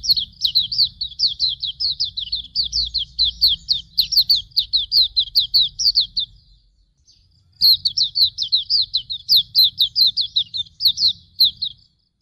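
Pleci auriventer (Hume's white-eye) singing two long runs of rapid, high, falling chirps, about five notes a second. The first run lasts about six seconds; after a short pause the second lasts about four seconds.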